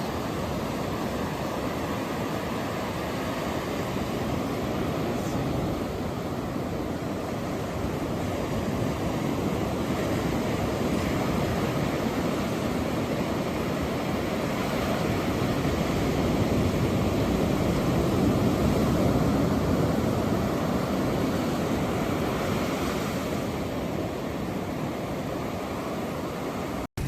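Ocean surf: a steady wash of waves that swells louder for a while in the middle, cutting out briefly near the end.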